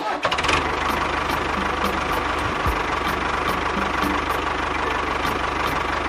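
A motor running steadily with a rapid low knocking; it starts abruptly.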